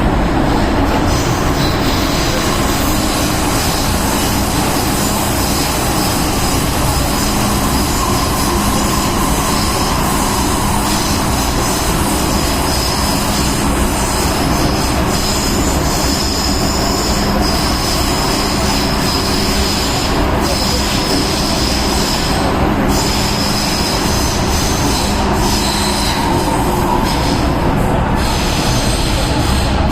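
MTR M-Train electric multiple unit running along the track: a steady wheel-and-rail running noise with a constant low motor hum and a high wheel squeal that comes and goes.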